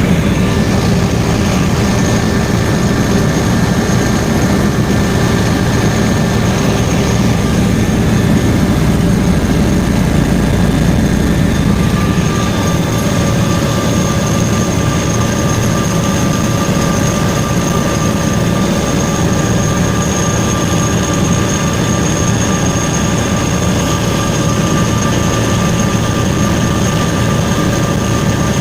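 Helicopter in flight: a steady, loud engine and rotor noise with a constant whine. The tones in it change about halfway through.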